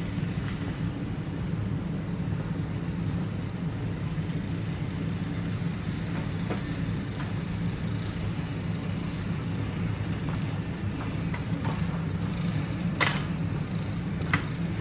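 A neighbour's snow blower engine running steadily at a distance. A couple of sharp clicks or knocks come near the end.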